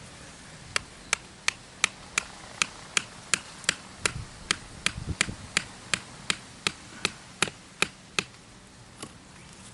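Steady hand hammering while setting up a bushcraft trap: about twenty sharp knocks, roughly three a second, that stop about eight seconds in, with one last lighter knock after.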